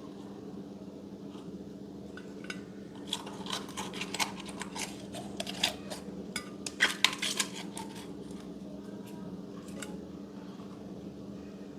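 Slime being worked by hand, giving a run of sharp clicks and crackles for several seconds in the middle, over a steady low hum.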